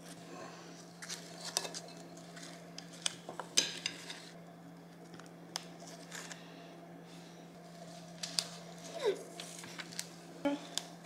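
Spoons clinking and scraping against a bowl while scooping a sticky mixture, a scattered run of light clicks and scrapes.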